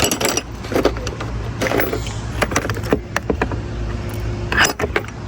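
Small hard clicks and brief rustles of a thermostat and its gaskets being handled and test-fitted by hand, over a steady low hum.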